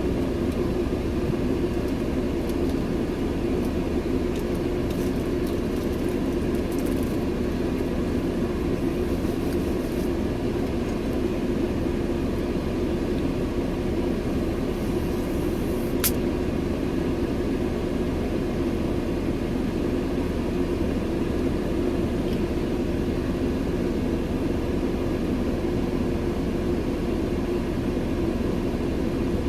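Steady running hum of a semi-truck heard from inside the cab, with one sharp click about halfway through.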